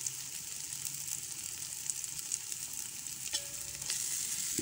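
Onions, ginger-garlic paste and freshly added garam masala sizzling in hot oil in a steel pot as a perforated steel skimmer stirs through them, with a steady hiss and scattered light clicks. This is the bhuna stage of frying the masala for a mutton pulao.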